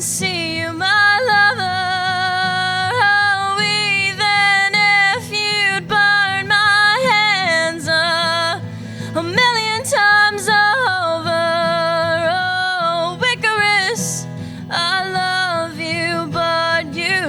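A woman singing live over acoustic guitar accompaniment, with long held notes that waver and slide between pitches and no clear words.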